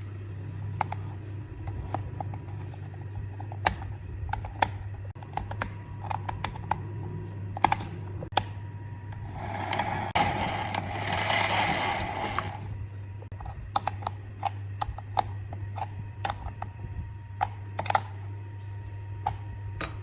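Small parts of a chainsaw being handled and worked at a bench: scattered clicks and light taps, with a hiss lasting about three seconds in the middle, over a steady low hum.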